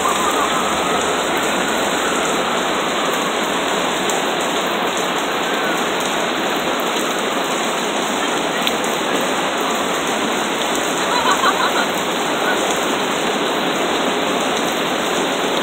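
Heavy rain pouring onto the asphalt road and concrete sidewalk, a steady hiss of splashing drops.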